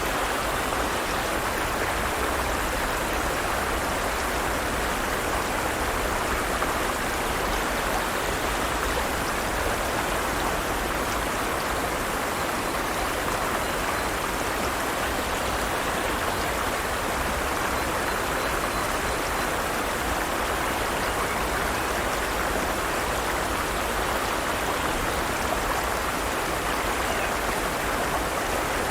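Forest stream water running over stones in a steady, even rush.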